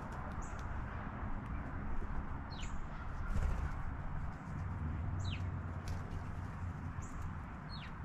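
A songbird calling: a thin, high note that slides steeply downward, repeated three times about two and a half seconds apart, with short high chips in between. A steady low outdoor rumble runs underneath.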